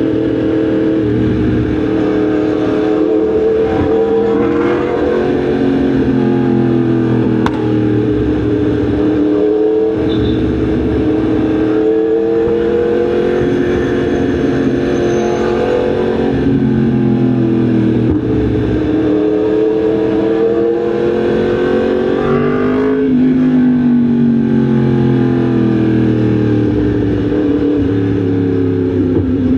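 Yamaha MT-10 SP's crossplane inline-four engine under way, its pitch climbing and dropping several times as the throttle is worked and gears change.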